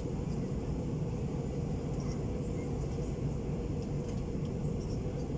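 Steady low rumble inside the cabin of an Airbus A321-231 with its IAE V2500 engines at idle, heard while the airliner taxis after landing.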